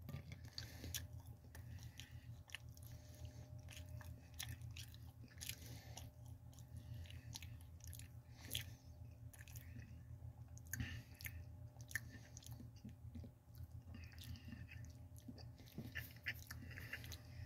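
Faint mouth sounds of someone chewing a fried cheese-filled tater tot: soft irregular clicks and small crunches, over a low steady hum.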